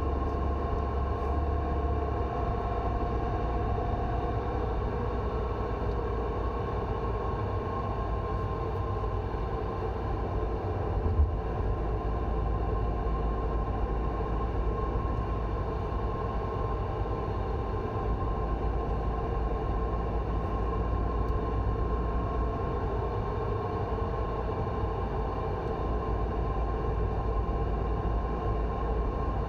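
Mercedes-Benz C180 Kompressor (W204) on the move: steady road and drivetrain rumble with a constant whistling, howling whine above it, the noise the owner hears whenever the car is driven above about 50 km/h. A single short knock about eleven seconds in.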